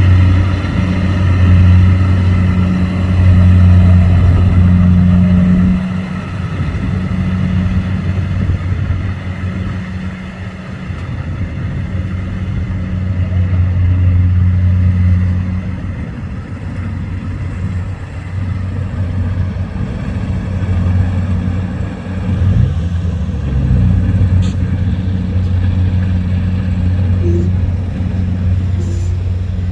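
Rice combine harvester's engine running steadily with a deep, loud hum. It is loudest for the first six seconds, eases off, then rises and falls again as the machine works.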